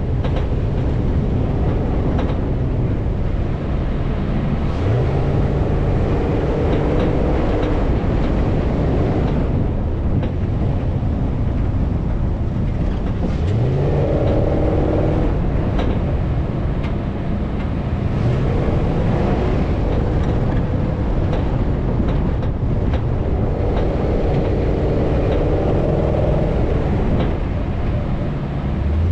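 Off-road vehicle engine driving over sand dunes, a constant heavy rumble. The revs climb sharply several times as it works up the slopes.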